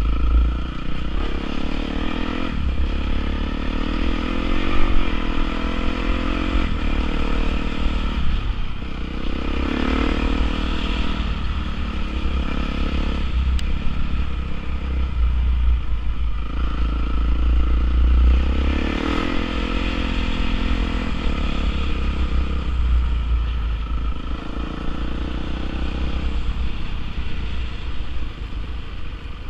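Honda CRF450R dirt bike's single-cylinder four-stroke engine running, its revs rising and falling repeatedly as it is ridden, over a heavy low rumble.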